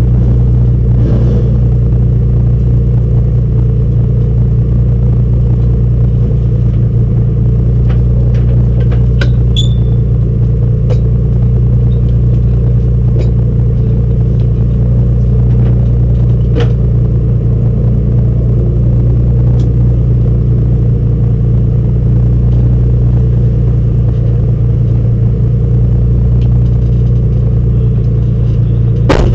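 Race car engine idling steadily at about 1,200 rpm while the car sits stationary, heard from inside the cabin.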